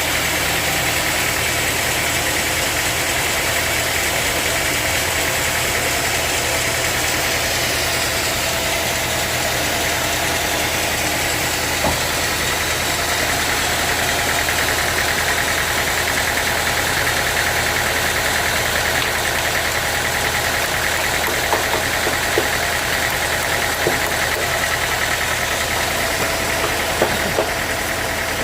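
Sawmill saw machinery running steadily with an engine-like hum, with a few light knocks near the end.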